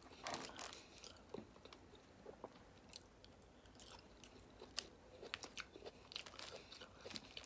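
A person chewing and crunching food close to the microphone, with many short, faint clicks and crackles scattered through.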